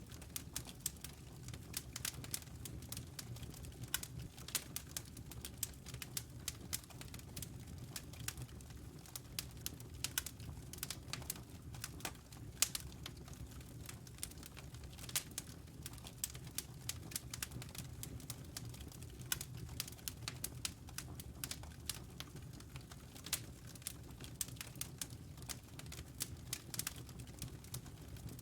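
Wood fire in a fireplace crackling: a quick, irregular run of sharp snaps and pops from burning logs, with a few louder pops, over a steady low rumble.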